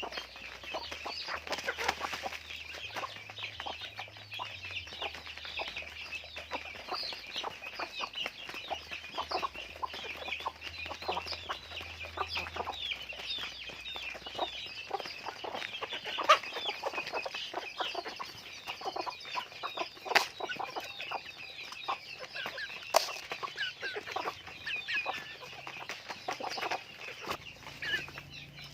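A flock of chickens clucking and calling, many short overlapping calls without a break, with three sharp clicks in the second half.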